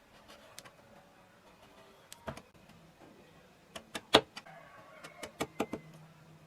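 Sharp irregular taps and clicks of carving tools working wood, in a quick cluster with the loudest strike a little past the middle. A faint low hum comes in partway through.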